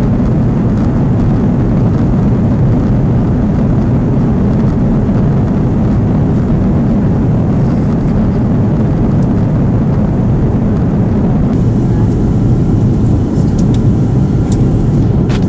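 Steady loud roar of an Airbus A330's engines and rushing air, heard from inside the passenger cabin, with a few faint clicks near the end.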